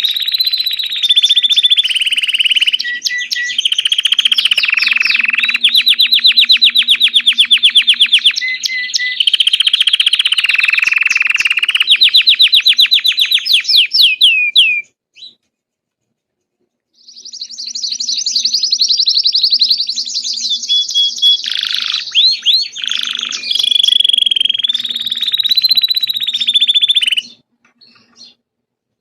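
Belgian canary singing long rolling trills and rapid runs of repeated chirps. The song comes in two long passages, with a silent pause of about two seconds between them, and stops near the end.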